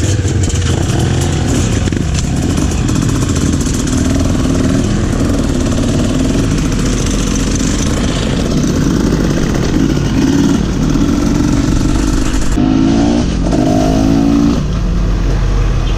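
Trail motorcycle engine running under way, its pitch rising and falling with the throttle, with a few quick rising revs near the end.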